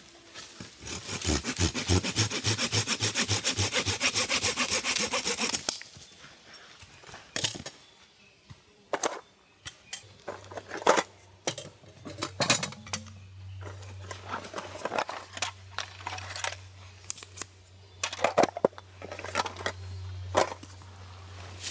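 Silky Gomboy folding saw cutting wood in quick, rhythmic strokes for about five seconds. Then come scattered knocks and clicks, with a low steady hum from about halfway.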